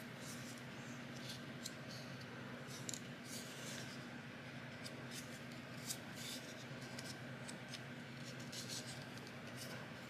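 Faint snips and rustles of paper being cut with scissors, as short, scattered ticks.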